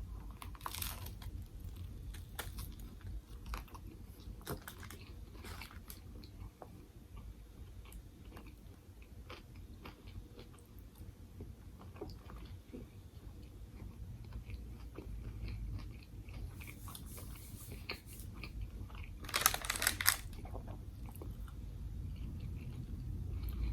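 Close-up chewing and biting of a banh mi sandwich, its baguette crust crackling between the teeth, with wet mouth sounds. A louder bite crunches near the end.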